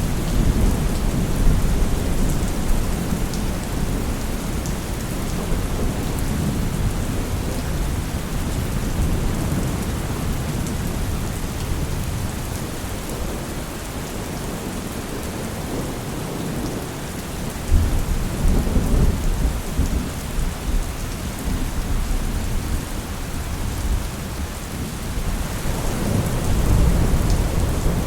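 Steady heavy rain with rolls of low thunder: one near the start, another that breaks in suddenly about two-thirds through, and a third near the end.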